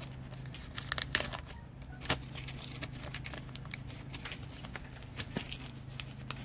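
Trading cards and plastic card sleeves being handled: irregular crinkling and light sharp clicks, busiest in the first couple of seconds, over a steady low hum.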